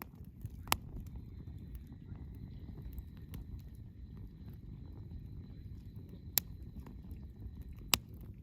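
Wood fire burning with a steady low rush and small crackles, and three sharp pops from the burning wood: one near the start and two near the end. A faint steady high whistle runs through most of it.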